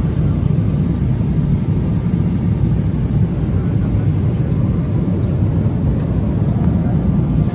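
Steady, low drone of a jet airliner's cabin in flight: engine and airflow noise.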